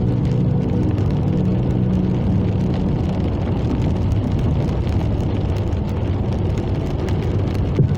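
A car driving at steady speed: continuous engine hum and road noise.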